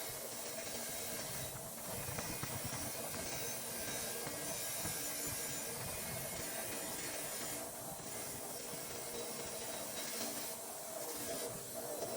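Pressure washer spraying: a steady hiss of water with a faint hum, easing off briefly a few times.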